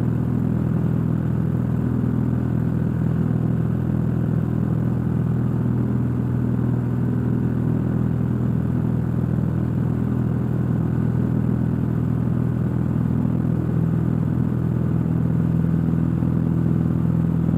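Cessna 172's piston engine and propeller droning steadily at full climb power, heard inside the cockpit.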